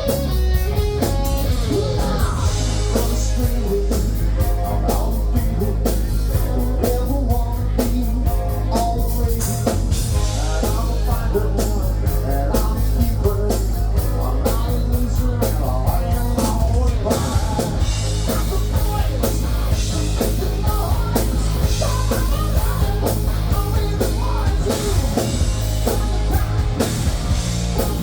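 A rock band playing a hard-rock cover at full volume: drum kit, electric guitar and bass, with singing.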